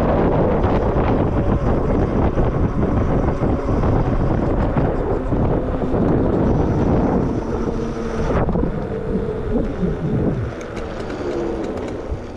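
Wind buffeting the microphone while riding an electric bike on a trail. In the second half, the electric motor's whine shows through, sliding up and down in pitch as the speed changes.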